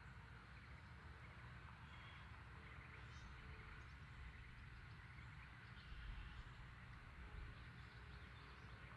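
Faint outdoor ambience: scattered distant bird chirps over a low rumble of wind on the microphone.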